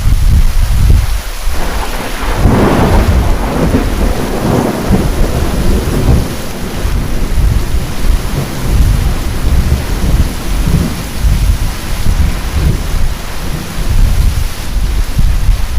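Thunderstorm with heavy rain. A deep thunder rumble comes in suddenly, a crackling peal follows about two seconds in, and the thunder keeps rolling low under steady rain.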